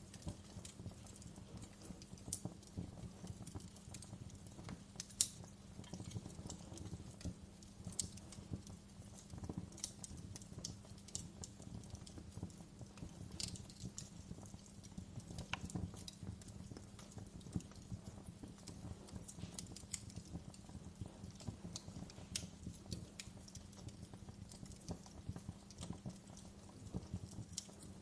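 Wood fire crackling in a fireplace: irregular sharp pops and snaps of burning logs over a low steady rumble.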